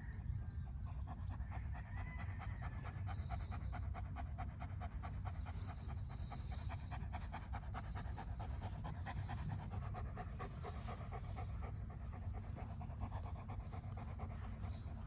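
Dog panting steadily and quickly, several breaths a second, without a break.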